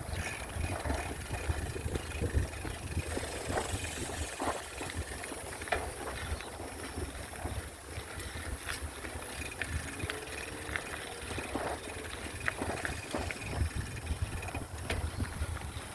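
Wind buffeting the microphone as a low rumble, with scattered light clicks and rattles throughout.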